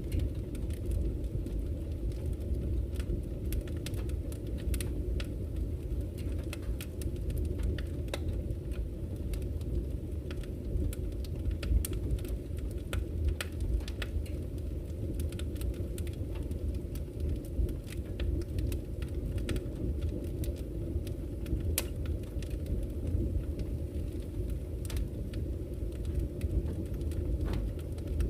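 Campfire crackling, with frequent sharp irregular pops, over the steady low rush of flowing river water.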